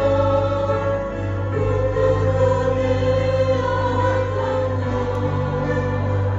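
Church choir singing a hymn in several parts, holding long chords that change every second or two over a steady low bass accompaniment.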